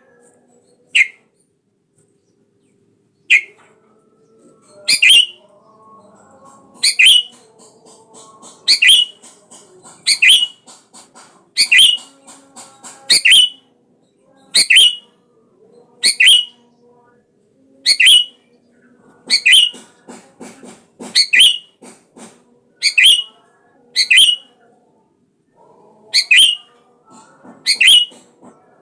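Sooty-headed bulbul calling: loud, short, sharp whistled notes that slide down in pitch, repeated about every one and a half to two seconds after a brief pause near the start, with softer chattering between them.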